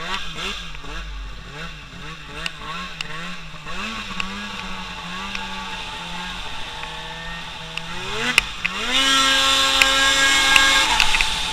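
Small engine revving, throttle blipped up and down rapidly at first, then steadier, then climbing about eight seconds in to a loud, held high rev that drops away just before the end.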